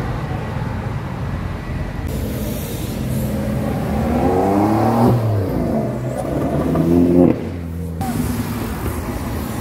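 Sports car engine accelerating hard along the street: two rising revs with a gear change between them, the second cut off abruptly about seven seconds in, over steady traffic noise.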